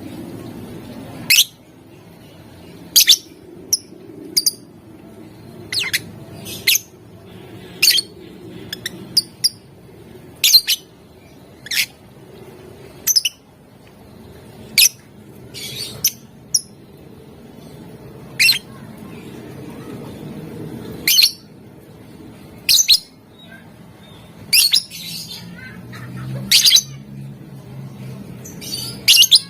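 Lovebird giving short, sharp, shrill squawks one at a time, irregularly spaced about a second apart, over a low steady background hum.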